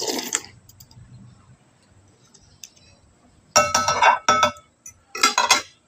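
Cutlery clinking and scraping against dishes during a meal: one clink at the start, then a cluster of louder ringing clinks in the second half.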